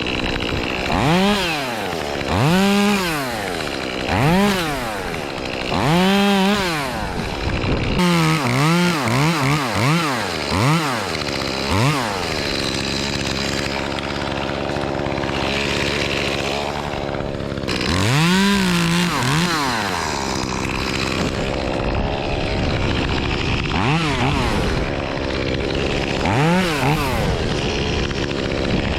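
Echo CS-2511T top-handle chainsaw, a small two-stroke, revving up and falling back again and again, each burst about a second long. It drops to a steady idle for a few seconds around the middle, then revs again.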